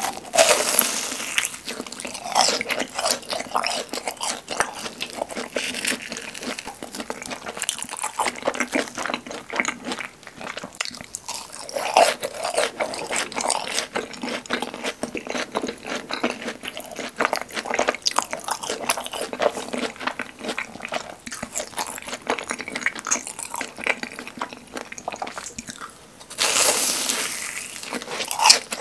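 Close-miked crunchy bite into a fried cheese ball dipped in creamy sauce, followed by long, wet, crackly chewing. A second loud crunch comes near the end, a bite into a seasoned cheese ball.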